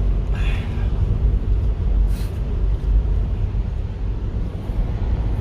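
Low, steady rumble of a car driving, heard from inside the cabin. A brief higher sound comes about half a second in, and a short hiss about two seconds in.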